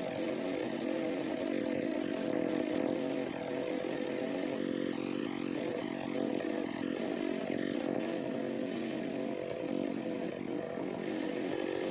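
Chainsaw mounted in a Granberg Alaskan chainsaw mill running steadily at high revs under load, ripping a log lengthwise with a standard crosscut chain rather than a ripping chain.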